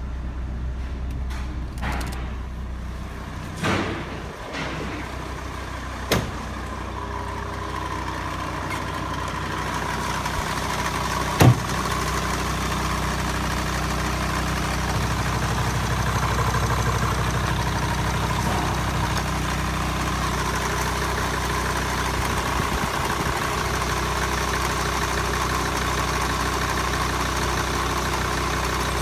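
Mercedes ML W163's 2.7 L CDI five-cylinder diesel idling steadily, with a few sharp knocks about 4, 6 and 11 seconds in.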